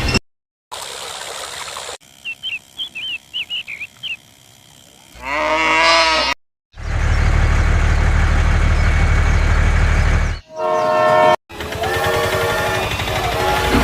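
A series of short train sound clips joined by abrupt cuts: train horn blasts with gliding pitch, and a stretch of the steady noise of a train running past.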